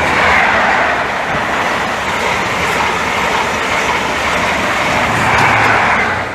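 Express passenger train passing through the station at speed without stopping: a loud rush of wheels on rail and moving air, swelling near the start and again about five seconds in.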